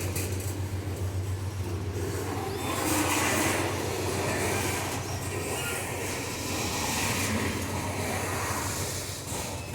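Loaded ore train of hopper wagons rolling slowly as it starts to gain speed, a continuous rail rumble over a steady low drone, with a few faint squeals.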